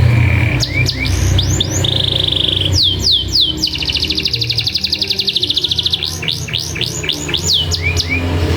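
Domestic canary singing: quick downward-sweeping whistled "cuit" notes, a short trill about two seconds in, then a long rapid rolling trill of even notes from about four to six seconds in, before the sweeping notes return. A low steady hum runs underneath.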